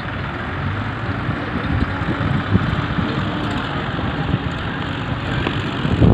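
Massey Ferguson 245 tractor's diesel engine running steadily with a low throb, with a louder low surge right at the end.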